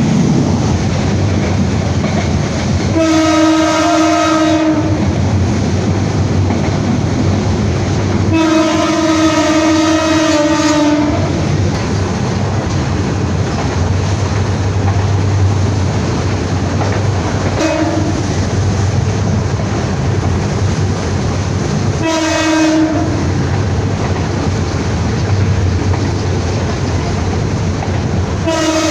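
Passenger train running with a steady rumble and the clickety-clack of the rails, its locomotive horn sounding five times: two long blasts a few seconds apart, then two short ones, and another starting right at the end.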